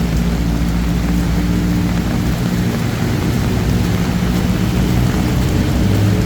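Heavy rain falling steadily, with the low steady hum of vehicle engines running in traffic.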